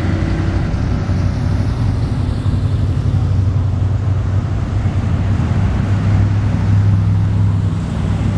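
Classic cars' engines running as they roll slowly past in a cruise, a steady low engine rumble that swells to its loudest about six to eight seconds in, then eases.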